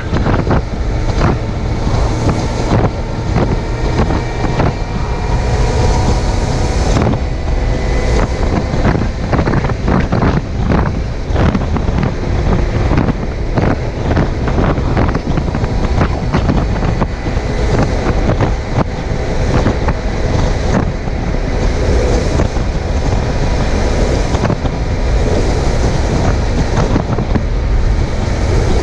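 Suzuki GSX750F inline-four engine running at road speed under heavy wind buffeting on the microphone, its engine note rising and falling a little as the throttle changes.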